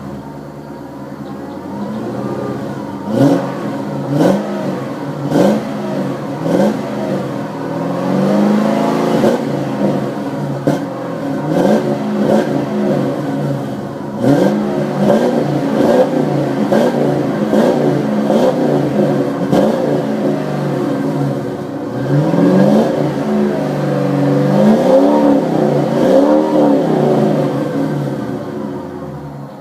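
1989 Lincoln Town Car's 5.0-litre V8 exhaling through FRPP headers, an X-pipe and Flowmaster Super 44 mufflers, revved up and let fall back again and again. The first few revs are short blips; later ones climb higher and hold longer before dropping back to idle.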